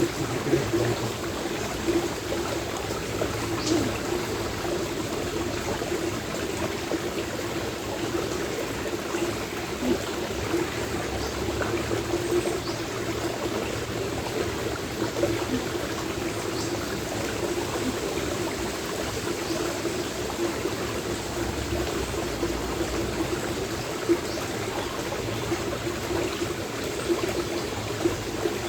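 Stream water flowing steadily, under a low rumble of strong wind that swells and eases. A few short sharp ticks, the sound of acorns dropping, stand out here and there.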